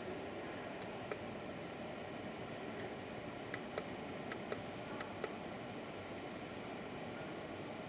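Push-button switch on a portable LED emergency floodlight being clicked through its modes: four pairs of sharp clicks over a steady background hiss.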